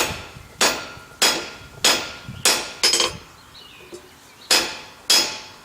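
Blacksmith's hammer striking hot square steel bar held half on the near edge of the anvil, setting down a shoulder. Sharp ringing blows about every 0.6 seconds, a pause of about a second and a half just past the middle, then two more blows.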